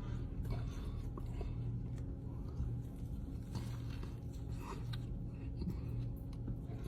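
A person chewing food close to the microphone, with soft wet mouth clicks and small crunches over a steady low electrical hum.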